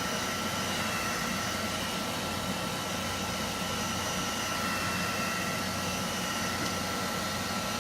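Handheld hot-air dryer blowing steadily, drying a layer of wet chalk paste on a transfer.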